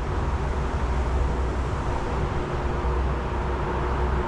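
Steady hiss of car-wash water spraying over a car, with the BMW M550i's twin-turbo V8 idling as a low hum underneath.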